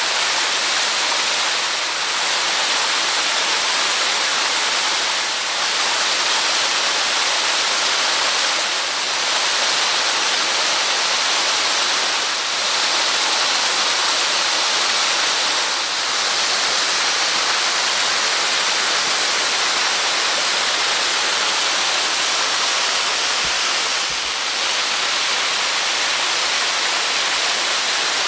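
Waterfall of about 6 m drop, its falling water making a steady, loud, even rushing hiss.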